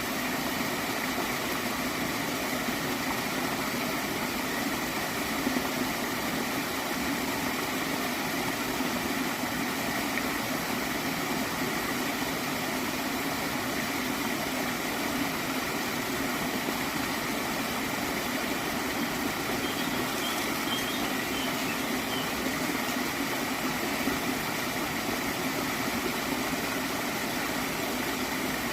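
Gently flowing stream water gurgling steadily.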